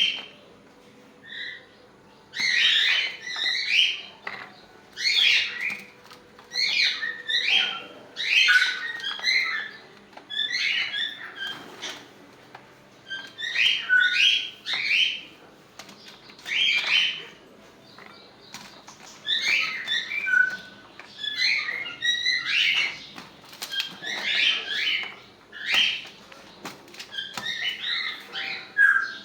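Pet parrots chattering and chirping in repeated short bursts, about one every second or two.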